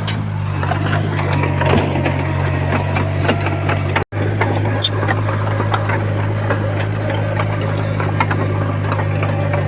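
Diesel engine of heavy earthmoving machinery running steadily with a low hum, under scattered clicks and knocks. The sound cuts out for an instant about four seconds in.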